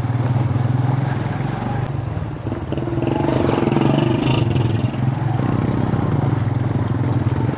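Motorcycle engine running steadily at low revs, ridden slowly over a rough, broken mountain track, with a brief dip in engine sound about two and a half seconds in.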